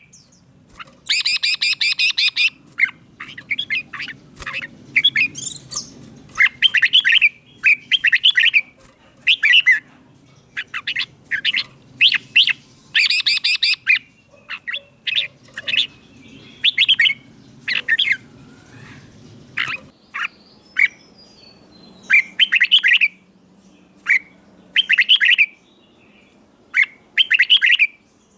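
Red-whiskered bulbul singing: short, loud whistled phrases repeated every second or so, with a denser burst of rapid chattering notes about a second in and again near the middle.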